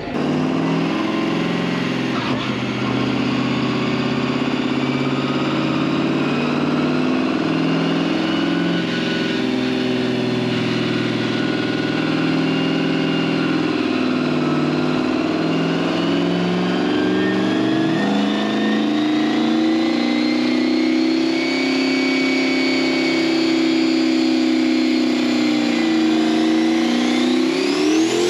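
Truck engine running hard at steady high revs, its pitch climbing slowly in the second half and rising quickly near the end.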